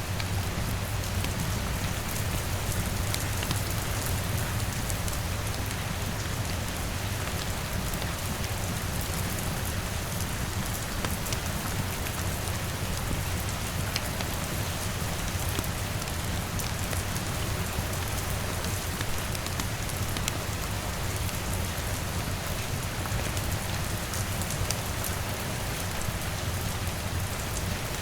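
Steady rain falling on a window, an even, unbroken hiss, with scattered sharp crackles of a wood fire and a steady low rumble underneath.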